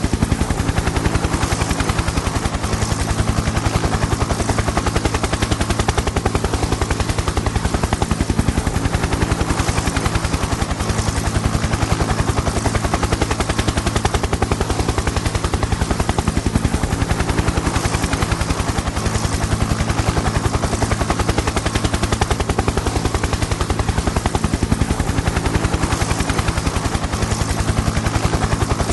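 Helicopter in flight: the fast, even chop of the rotor blades over a steady engine hum, unchanging throughout.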